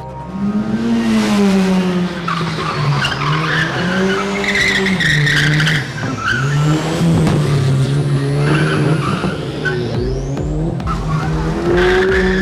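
Car engine revving up and down, holding steady between rises and falls, with tyres squealing.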